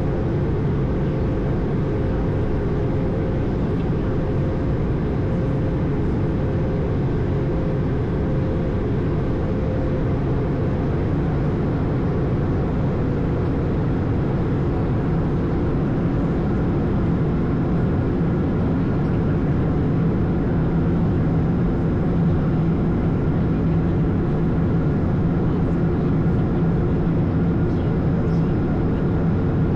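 Ambient noise on the Airbus A220 flight deck in flight: a steady, even rush of airflow with engine hum and a few steady tones underneath. A higher tone fades out about ten seconds in.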